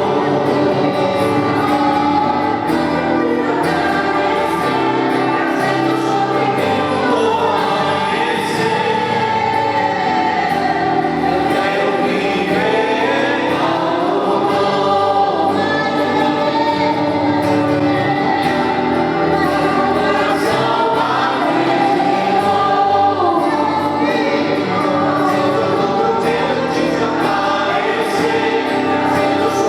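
Gospel hymn sung by a group of voices over instrumental backing.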